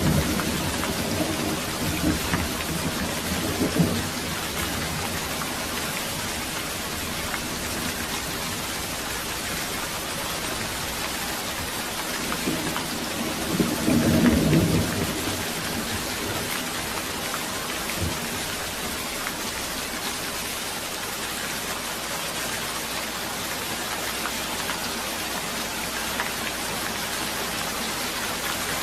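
Steady rain hissing, with low rumbles of thunder: one at the start, a shorter one a few seconds in, and a longer swell about halfway through.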